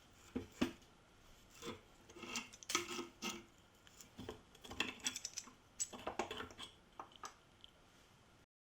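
Small metal parts clinking and clattering as they are handled, in a run of irregular knocks and light rattles, some with a short ring. The sound cuts off suddenly near the end.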